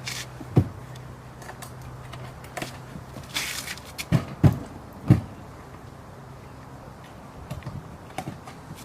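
Sharp thumps and knocks of folding-boat parts being handled, four distinct knocks with a short scrape among them, over a steady low hum.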